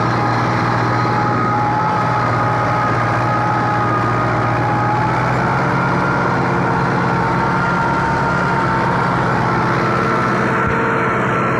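Fiat 640 tractor's four-cylinder diesel engine running steadily while driving a rotavator, with a steady high whine over the engine drone.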